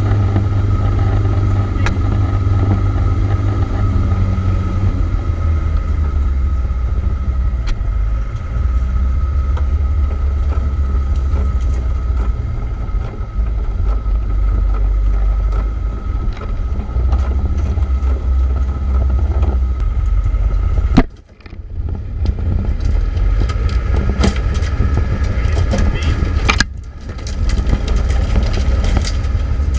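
Land Rover Defender 90 driving on a snowy off-road trail, heard from inside the cab: a steady low engine and drivetrain rumble with a constant whine over it and scattered knocks and rattles. The sound drops out sharply for a moment about two-thirds of the way through and again near the end.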